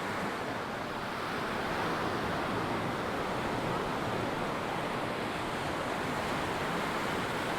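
Ocean surf washing steadily onto a sandy beach, with a little wind on the microphone.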